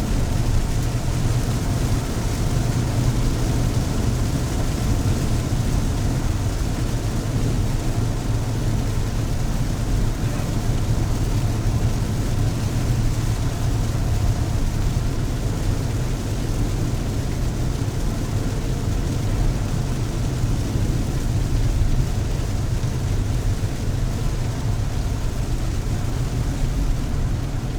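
Steady noise inside a car's cabin while driving in heavy rain: a low road and engine hum under an even hiss of rain.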